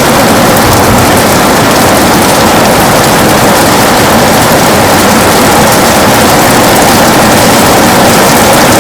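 Heavy rain on a window: a loud, steady, dense hiss with no pauses or separate drops standing out.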